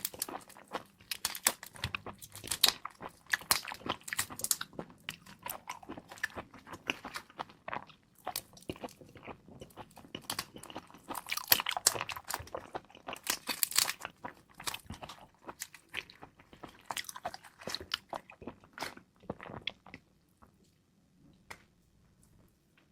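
Close-miked crackling and crunching of shrimp shells being pulled apart and seafood being chewed: a dense run of sharp crisp snaps and wet chewing that thins out over the last few seconds.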